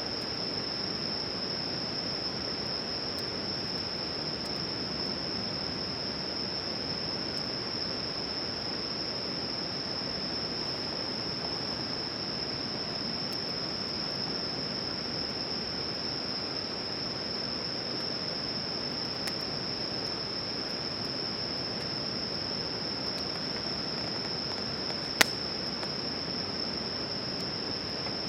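A steady chorus of night insects holding one shrill unbroken tone, over a low even hiss. Faint crackles from a wood campfire, with one sharp pop about 25 seconds in.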